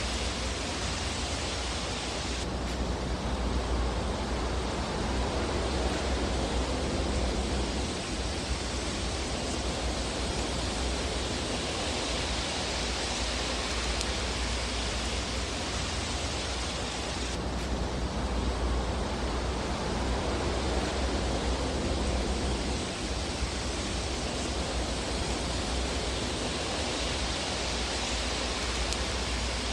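Fireplace fire sound: a steady rushing hiss over a low rumble, with no distinct crackles. The hiss shifts abruptly about 2.5 s in and again some 15 s later, as a looped ambience track does.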